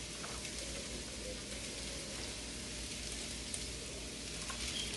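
Cooked rice and sautéed onion frying in hot oil in a pot: a steady sizzling hiss.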